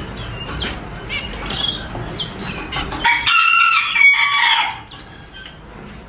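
Small cage birds chirping in short high notes, and about three seconds in a rooster crows once for under two seconds.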